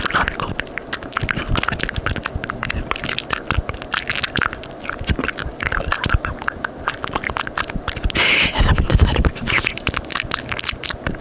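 Close-miked ASMR mouth sounds: a rapid, dense stream of wet tongue and lip clicks and smacks, with a louder breathy stretch about eight seconds in, from words mouthed inaudibly.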